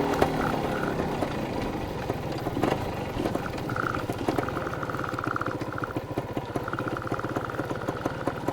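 250 dirt bike engine running at low revs, its firing pulses steady and even, with a thin higher whine that comes and goes.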